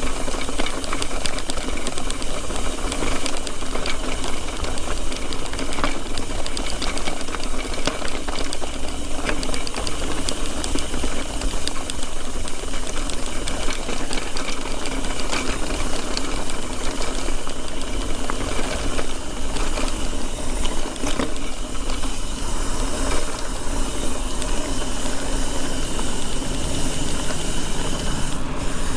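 Mountain bike rolling over a rough trail, the frame and parts rattling with many small clicks under a steady rush of wind noise.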